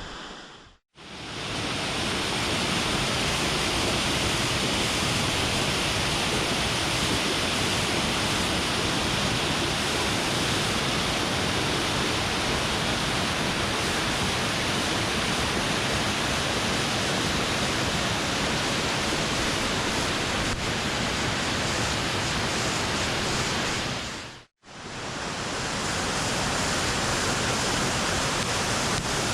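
Steady rush of falling water from a waterfall cascade, cutting out briefly about a second in and again near the end before coming back.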